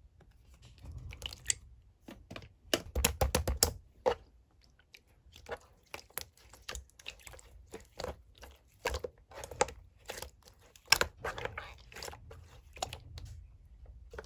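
Slime being squeezed and poked by hand, giving irregular sticky clicks and pops, with a dense run of them about three seconds in and another around eleven seconds in.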